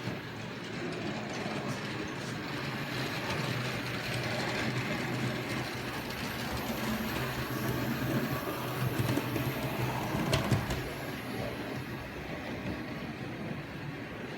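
OO gauge model locomotive, a newly DCC-chipped and oiled LMS 'Jinty' tank engine, running along the track with a steady motor hum and wheel noise while being run in. It grows louder as it nears, with a sharp click just after ten seconds, then fades as it moves away.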